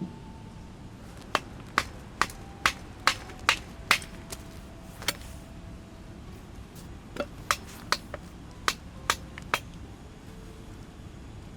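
Two runs of sharp, evenly paced blows, about two a second, like a hatchet chopping or a hammer striking, with a pause of a couple of seconds between the runs.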